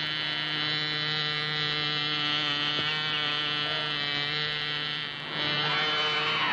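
Small model aeroplane's engine buzzing steadily as it flies, dipping briefly about five seconds in.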